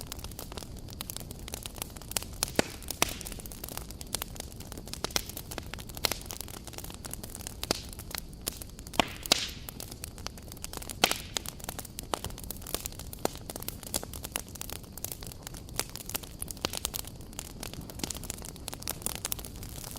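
Wood campfire burning, with a steady low rumble of flame and irregular sharp crackles and pops, a few of them much louder than the rest.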